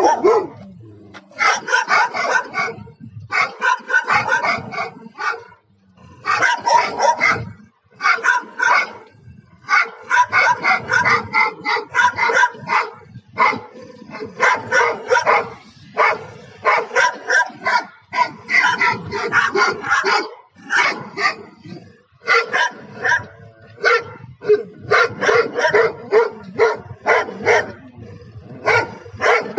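Big guard dogs barking aggressively in rapid runs of loud barks, broken by short pauses.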